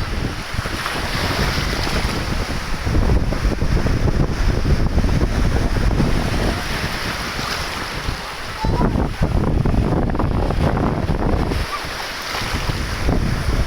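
Wind buffeting the microphone in gusts over a steady rushing noise, rising and easing every few seconds.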